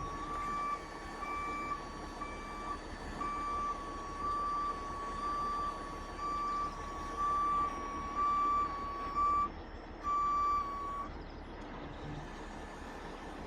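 Vehicle backup alarm beeping steadily at one pitch over a running diesel truck engine. The beeping stops about eleven seconds in.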